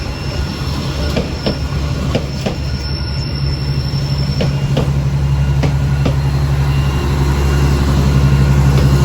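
Passenger train coaches rolling past, their wheels clicking over rail joints about twice a second. Under them a steady diesel engine hum grows louder toward the end.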